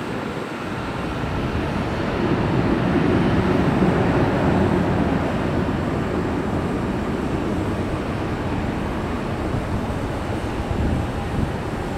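Jet airliner engine noise, a broad rumble that swells over the first few seconds and then holds steady.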